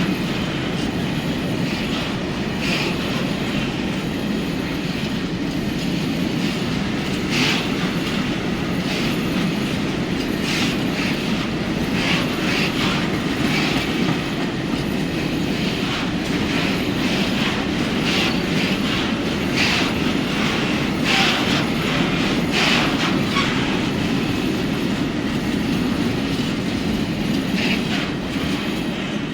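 A freight train rolling past, its wagons rumbling and clacking steadily over the rails, with short sharp higher sounds from the wheels now and then.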